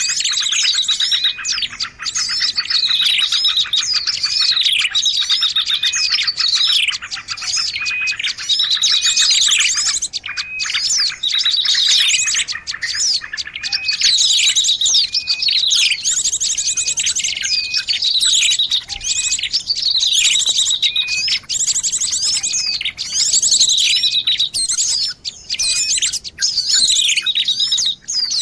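A dense, continuous chorus of many small birds' chirps, trills and rapid rattling calls, with repeated falling whistled notes: a bird-luring call recording used to draw small birds in.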